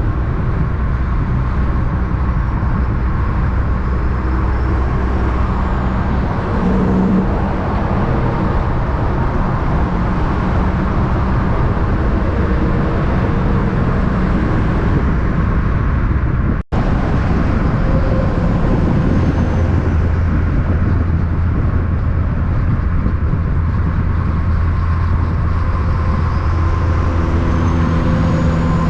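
Road traffic with heavy truck engines droning steadily. The sound breaks off for an instant about two-thirds through, and a different low engine drone picks up after it.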